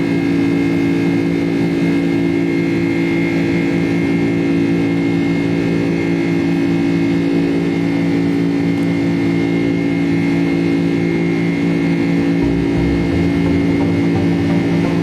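Steady drone of a Boeing 767's jet engines and airflow heard inside the passenger cabin, a constant hum with several held tones over a rushing hiss.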